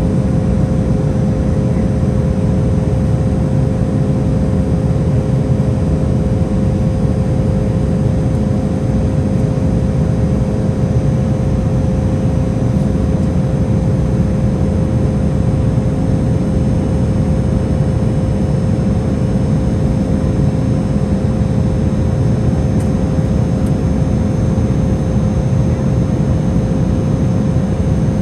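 Cabin noise of an Embraer E175 jet airliner under way: a steady, deep rush of engine and airflow noise with a constant hum from its GE CF34 turbofans, unchanging throughout.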